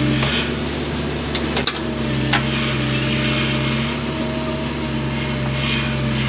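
Excavator's diesel engine running steadily under load while digging, with a couple of sharp metallic knocks about two seconds in.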